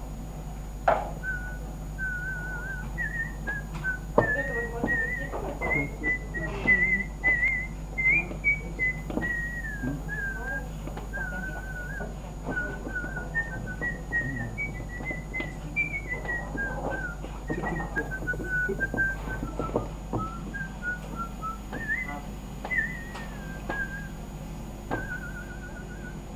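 A person whistling a slow tune, the pitch wavering from note to note, with scattered soft taps and knocks under it.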